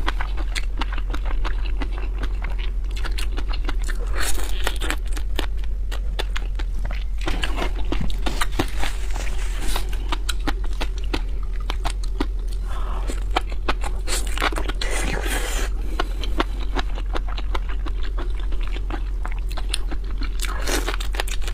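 Close-miked chewing and crunching of raw seafood: dense wet clicks and crackles with a few louder crunches, over a steady low hum.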